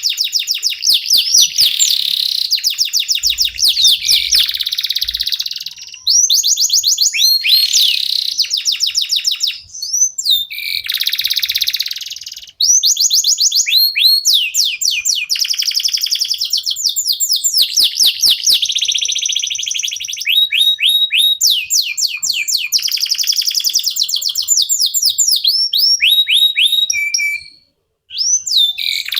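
Domestic canary singing a long song of rapid trills and quickly repeated high chirps, breaking off briefly a few times.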